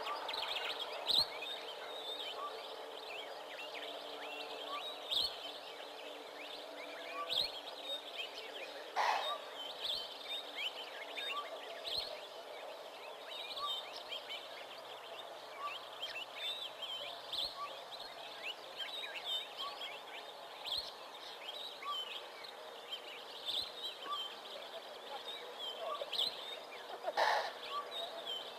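Wild birds calling and chirping throughout, many short high calls overlapping, with two louder calls, one about nine seconds in and one near the end.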